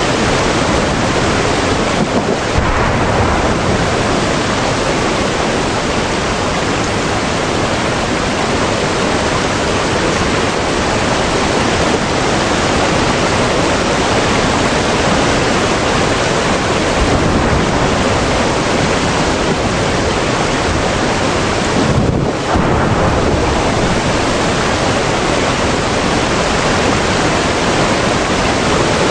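Steady, loud rushing noise from an ambience soundtrack, even across the whole stretch with no distinct crackles or pops.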